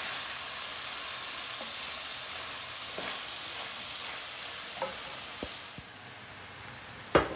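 Prawns in a thick onion and spice masala sizzling in a pan as a wooden spoon stirs them. About six seconds in the sizzle turns quieter, onions, garlic and green chillies frying in oil, and a sharp knock just before the end is the loudest sound.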